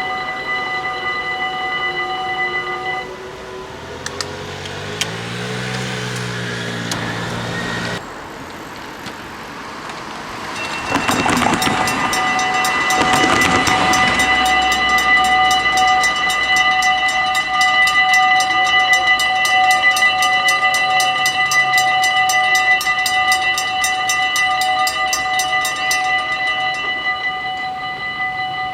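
Dutch level-crossing warning bells ringing steadily, with a train's horn sounding a few seconds in. About ten seconds in a train passes the crossing with a loud rush of wheel and rail noise while the bells keep ringing.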